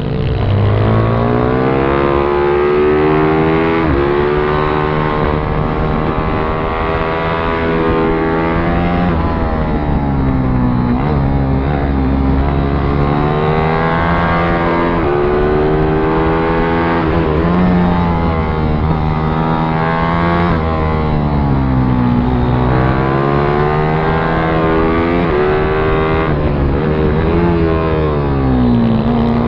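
Pit bike engine running hard, its pitch climbing and dropping back over and over as the throttle opens and closes.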